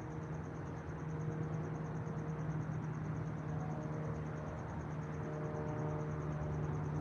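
Steady outdoor ambience: a low, constant hum and rumble under a fast, even, high-pitched pulsing trill.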